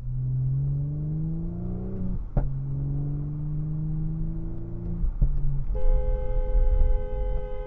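A vehicle engine accelerating, its pitch rising, dropping at a gear change about two seconds in and rising again, with another shift around five seconds. About six seconds in a two-tone car horn starts and holds steadily.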